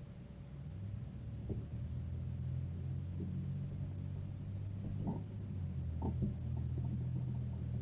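Low, steady vehicle engine rumble that swells a little about a second in and then holds, with a few faint knocks.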